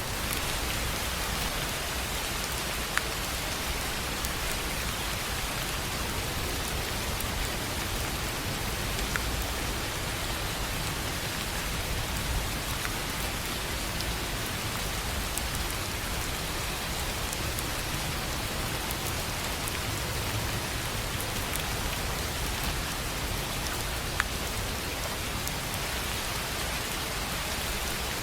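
Steady rain falling on a tin roof, an even patter with a few sharper single drop ticks, the clearest about 3 seconds in and near the end.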